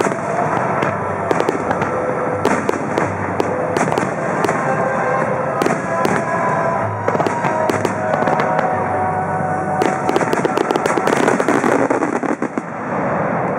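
Fireworks display with shells bursting in a rapid sequence of sharp bangs, and a dense run of crackling reports about ten seconds in. Held musical tones from the music accompanying the display play underneath.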